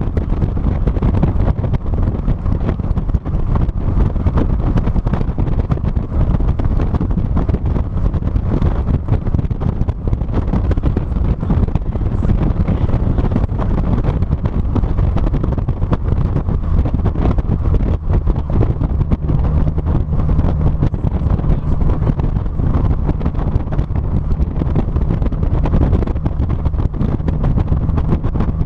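Heavy wind noise buffeting a GoPro microphone mounted on the trunk of a 2006 NC Mazda Miata on the move, with the car's engine and road noise running steadily underneath.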